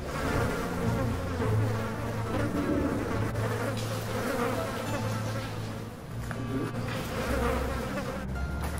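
Steady buzzing drone over low held tones that shift every second or two.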